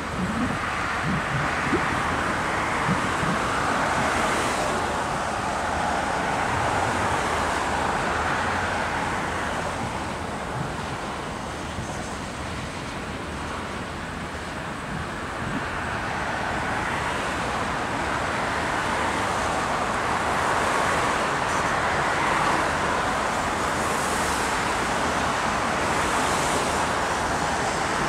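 Loaded coal hopper cars of a freight train rolling past: the steady noise of steel wheels on rail. It dips a little about a third of the way in and swells again toward the end.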